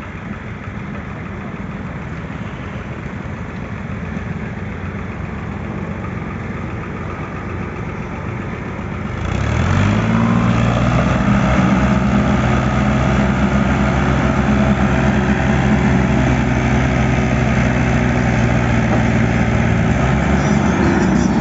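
Diesel tractor engine running steadily. About nine seconds in it becomes much louder and deeper, holding a steady pitch.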